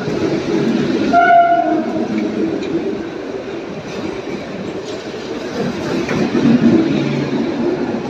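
Mumbai Western Railway EMU local train running along a station platform, a steady rumble of wheels and carriages, with one short horn blast about a second in.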